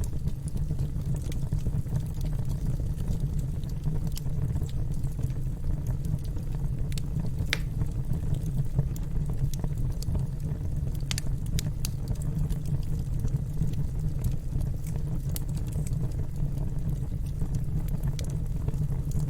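Wood fire burning in a fireplace: a steady low rumble with scattered sharp crackles and pops, a few of them louder, about seven and a half and eleven seconds in.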